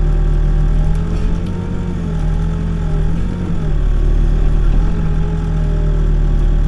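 Backhoe engine running steadily while digging, its pitch sagging slightly and recovering a few times as the load changes.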